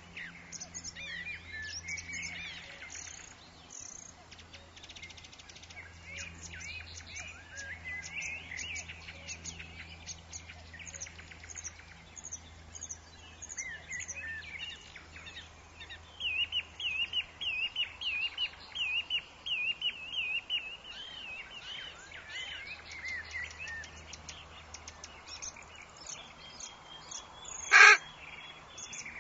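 Forest birds chirping and singing over each other, with a fast run of repeated warbling notes in the middle. Near the end a single short, loud, sharp sound stands out above the chorus.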